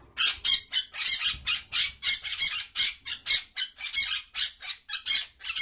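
Parrot squawking: a rapid run of harsh, screechy calls, about four a second.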